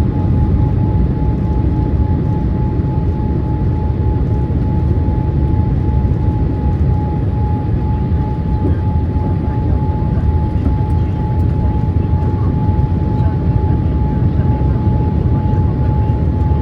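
Boeing 787-8 cabin noise on final approach: a steady low rumble of engines and airflow, with a steady mid-pitched whine over it.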